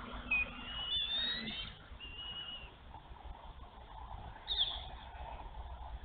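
Wild birds calling: high, thin whistled calls in the first few seconds and a short downward-sliding call about four and a half seconds in, over a low rumble.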